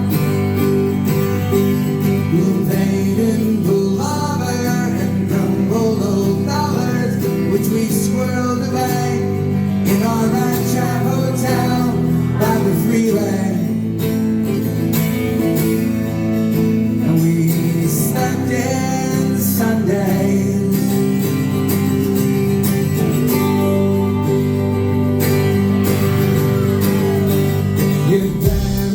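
Live band playing folk rock, with guitars prominent in a full, continuous passage.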